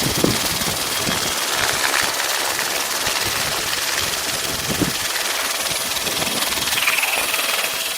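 Steady helicopter cabin noise from the engine and rotor: a dense, even hiss with faint steady engine tones and no break.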